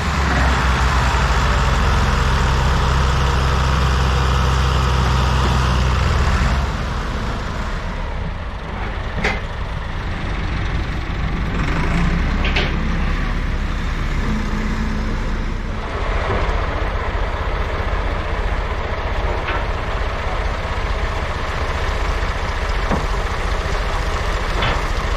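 Tractor engine running hard, with a loud steady low drone that drops off about six seconds in. It carries on quieter and rougher, with a couple of sharp clicks, then settles into a low pulsing run for the rest.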